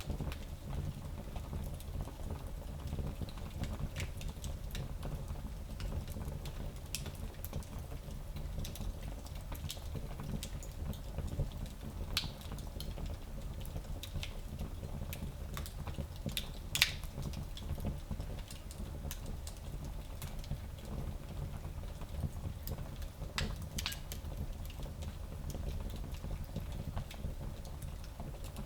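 Wood fire burning in a small fireplace: a steady low rumble of flames with scattered crackles and pops, one louder pop near the middle.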